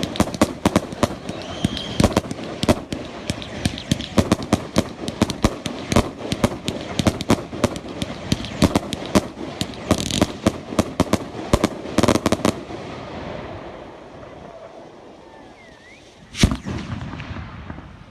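Fireworks going off: a rapid, dense string of sharp bangs and cracks that stops about twelve seconds in, then one single loud bang near the end that echoes away.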